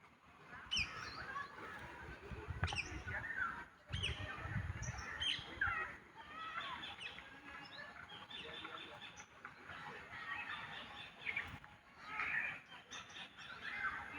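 Several birds chirping and calling in quick, overlapping phrases of short sweeping notes, with bursts of low rumble in the first few seconds.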